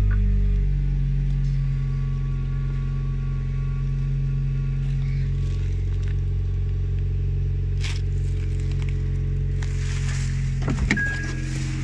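Honda Insight's LDA 1.3-litre four-cylinder petrol engine running at a steady fast idle just after being started. A few handling clicks and rustles and a short beep come near the end.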